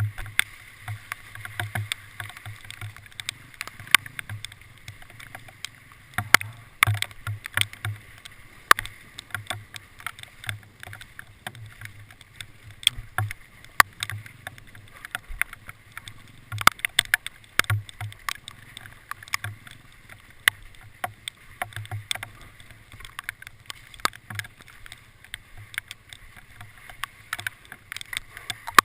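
Hailstones striking a vehicle in irregular, sharp ticks and knocks, several a second, over a steady low hum.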